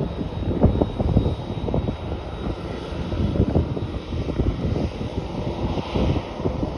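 Wind buffeting the microphone in irregular low gusts, over the steady engine noise of a Philippine Airlines jet airliner.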